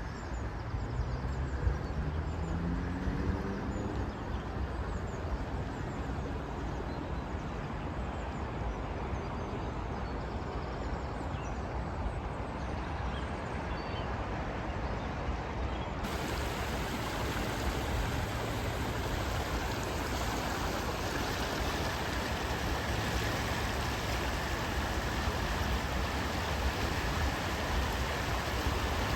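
Steady rush of flowing floodwater, with a vehicle engine rising in pitch over the first few seconds. About halfway through the rushing turns suddenly brighter and hissier.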